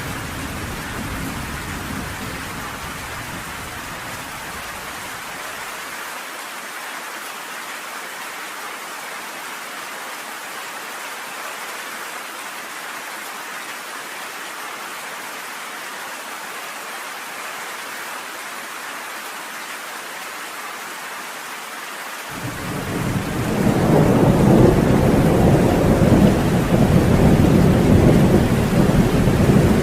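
Steady rain with thunder. A low rumble dies away over the first few seconds, leaving only the even hiss of rain; about 22 seconds in a loud roll of thunder builds and keeps rumbling.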